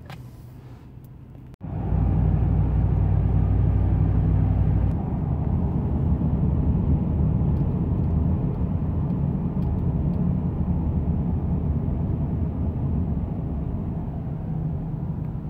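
A car driving, heard from inside the cabin: a steady low rumble of engine and road noise that starts suddenly about a second and a half in, after a quiet opening.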